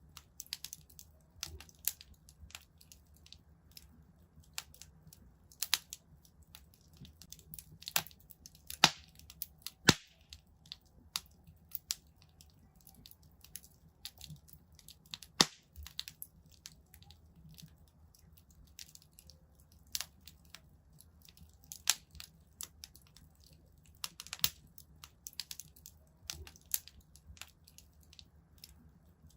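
Wood fire crackling in a fireplace: irregular sharp pops and snaps, a few louder ones, over a low steady hum.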